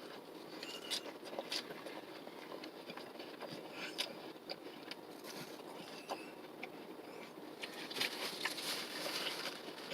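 Faint chewing of a mouthful of salad with apple, pecans and greens, with a few light clicks scattered through it and a slightly louder rustly stretch near the end.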